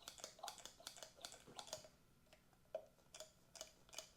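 Faint, irregular metallic clicks and ticks, about two or three a second, from hand work on a seized Honda CB750 engine while ATF is squirted into its cylinders.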